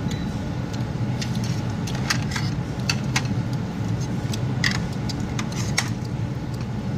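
Steady low truck rumble with scattered light clicks and rattles.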